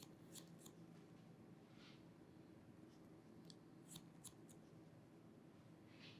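Barber's scissors snipping hair in faint, sparse snips: a few near the start and a cluster of about four around four seconds in, over a low steady room hum.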